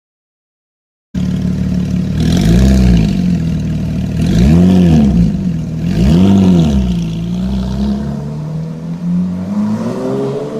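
A sports car's engine cuts in already idling and is blipped three times in quick succession, each rev rising and falling. Near the end it pulls away, the engine note climbing steadily as it accelerates.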